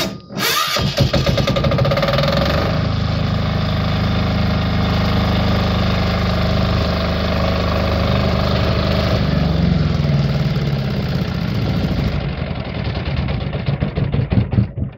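Wen D6000 diesel generator engine cranked on the electric starter with a click, catching within about a second and running steadily. Near the end it winds down and stops, a sign that the repaired stop mechanism now works.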